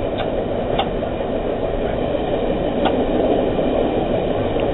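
Passenger train car running along the track, heard from inside the coach: a steady rumble of wheels on rails, with four sharp clicks spread through it.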